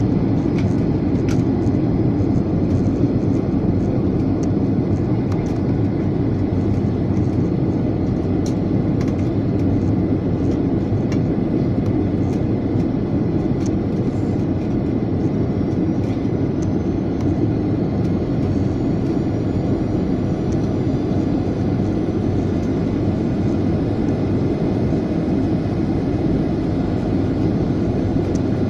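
Steady drone of an airliner's jet engines and rushing air heard from inside the passenger cabin during the flight's approach, with a faint tone slowly rising in pitch in the second half.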